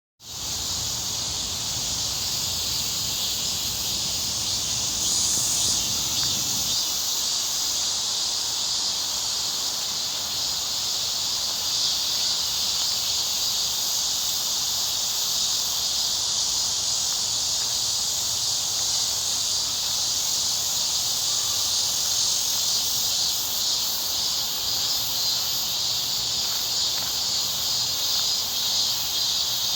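Steady chorus of insects, a dense high trilling that runs on without a break, with a low rumble underneath for the first seven seconds or so.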